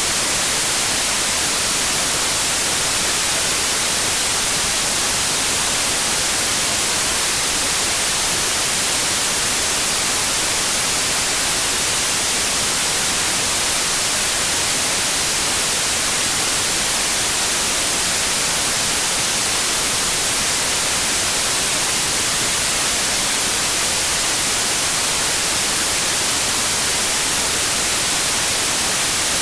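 Steady, unvarying white noise: an even hiss, strongest in the high frequencies, with no changes or other events.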